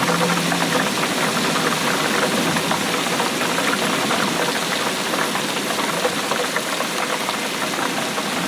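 Steady rainfall: an even wash of rain with a dense patter of many drops.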